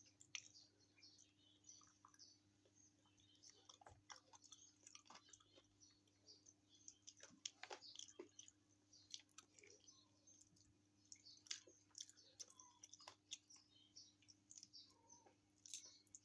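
Quiet close-up chewing of chicken feet: many short, irregular wet clicks and small crunches of mouth and skin.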